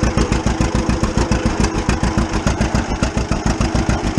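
1935 unstyled John Deere A's two-cylinder engine running with its even popping beat, about eight pops a second.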